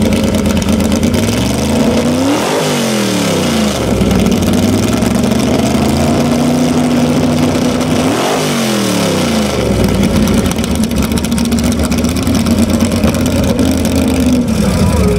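Car engine idling, then revved up twice: the pitch climbs to a peak about two and a half seconds in and again about eight and a half seconds in, each time falling straight back to idle.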